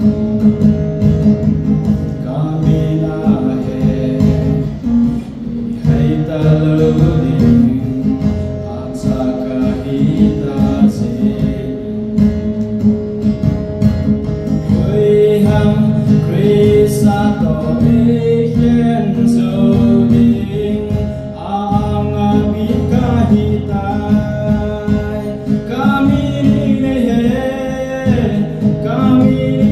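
A hymn sung with acoustic guitar accompaniment: the singing voices carry the melody over strummed and plucked guitar chords.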